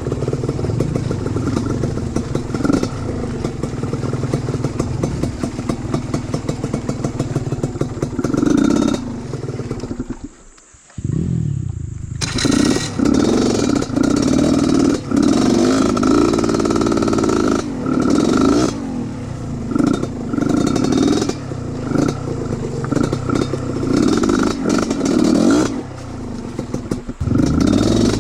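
Trail motorcycle engine running and revving in repeated surges over rough ground. It drops away briefly about ten seconds in, then picks up again with rising and falling revs.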